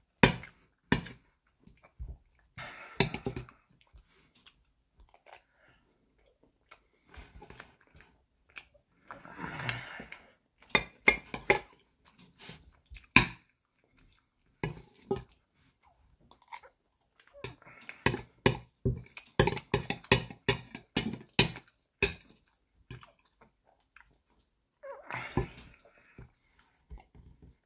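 Close-miked eating of soft, syrupy French toast: wet chewing and mouth smacks in irregular runs, thickest about two thirds of the way through, with the odd tap of a fork and spoon against the plate.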